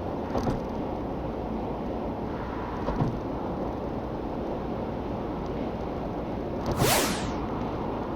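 Honda Freed's 1.5-litre four-cylinder petrol engine and tyre noise while cruising steadily on an expressway. There are light knocks about half a second and three seconds in. About seven seconds in comes a brief, louder whoosh that falls in pitch.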